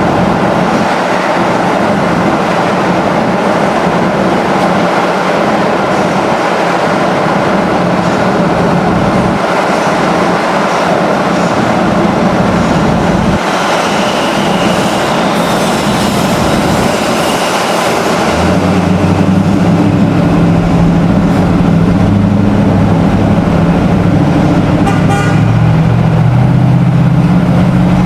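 Vehicle noise. About two-thirds of the way in, a loud, steady low-pitched tone joins and holds.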